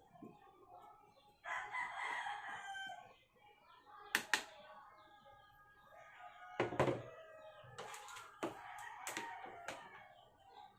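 A rooster crowing, one long call about a second and a half in and more later, with several sharp clicks or knocks in between.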